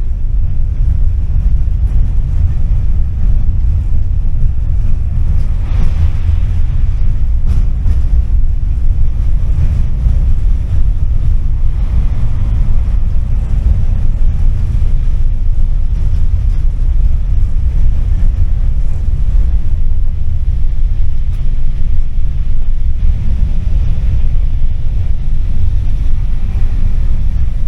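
Tram in motion on its rails, heard from inside the car: a loud, steady low rumble with no breaks.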